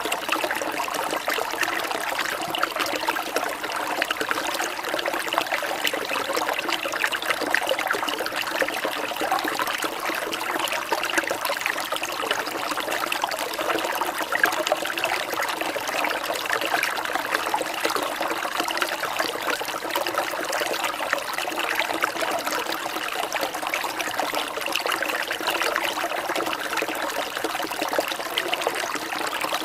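Steady rain falling, a dense, even mass of small drops with water trickling.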